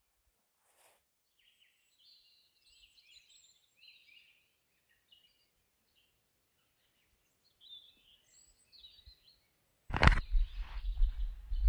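Songbirds singing faintly, a few overlapping high chirps and trills. About ten seconds in, a sudden loud thump, followed by a loud, uneven low rumble on the microphone.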